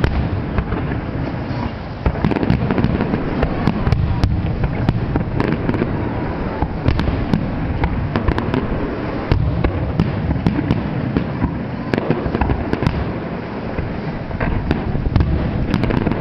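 Firework display finale: a continuous barrage of overlapping bangs and crackling reports with no break.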